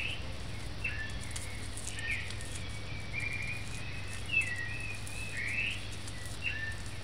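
Small birds chirping: short, high calls about a second apart, each sliding up or down in pitch, with a quick trill about three seconds in, over a steady low hum.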